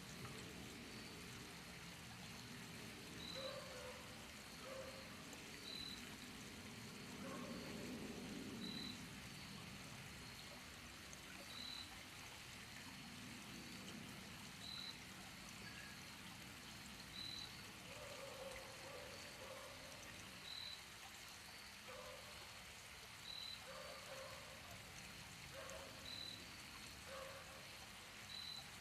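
Faint trickling water, with a short high note repeating about every three seconds and a few brief low notes in between.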